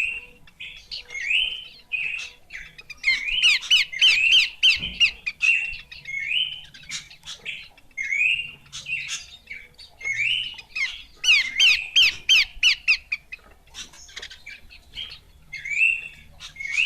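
Horsfield's babbler (pelanduk semak) calling with short, rising whistled phrases repeated every second or so. Twice, a few seconds in and again past the middle, it breaks into a fast run of rapid notes.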